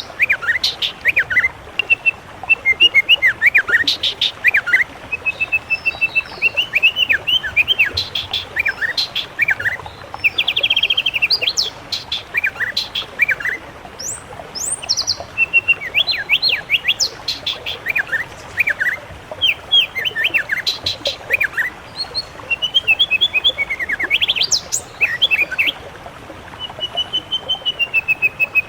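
Songbirds, a mix of several species, singing a rapid, continuous run of varied chirps, whistles and short trills, with a couple of brief lulls, over a faint steady hiss.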